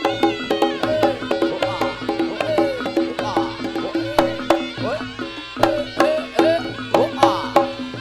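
Live Javanese jaranan music: struck, ringing pitched percussion and quick drum strokes in a steady, busy rhythm, with short falling pitch glides among them.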